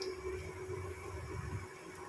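Bread puffs frying in ghee in a pan: a faint, steady sizzle, with a low rumble over the first second and a half and a steady low hum underneath.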